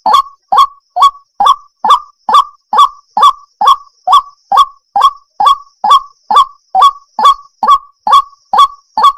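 Water hen calling a short, harsh honking note over and over, a little over two calls a second in an even, unbroken rhythm. A faint steady high tone runs behind the calls.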